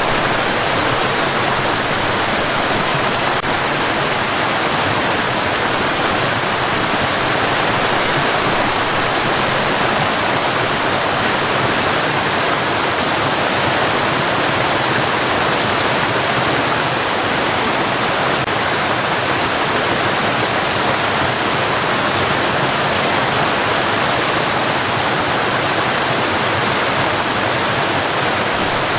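Steady, unchanging white noise: an even, loud hiss with no rhythm or events, used as a baby sleep sound.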